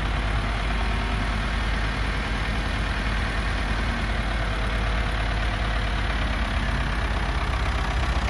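Vehicle engine running steadily with a strong low rumble.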